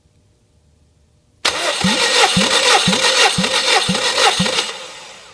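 Subaru EJ201 2.0-litre flat-four being cranked on its starter motor without firing, as for a compression test: a loud starter whir with a heavy pulse about twice a second as each cylinder comes up on compression. It cuts in suddenly about a second and a half in and winds down near the end.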